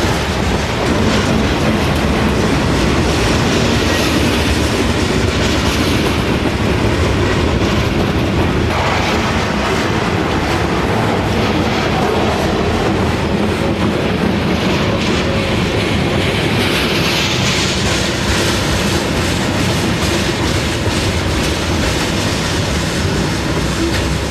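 Long, heavy freight train rolling past slowly up a grade, its wheels clicking over the rail joints in a steady run.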